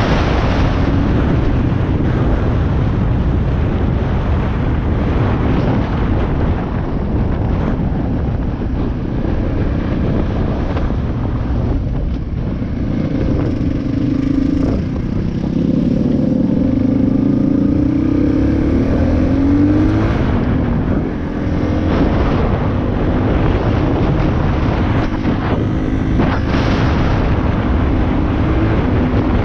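Dirt bike engine running on a trail ride, its pitch rising and falling as the throttle is worked, over a steady rush of noise.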